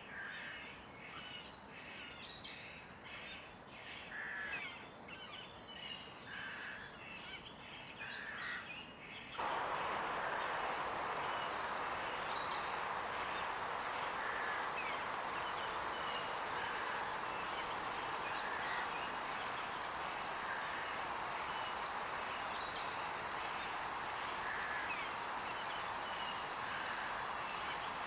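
Several small songbirds chirping and singing in quick, high notes and short trills. About nine seconds in the recording changes abruptly, and a steady rushing background noise comes in under the birdsong.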